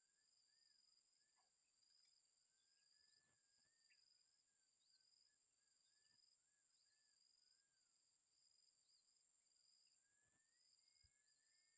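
Near silence with faint, steady insect chirring throughout and a faint wavering call beneath it.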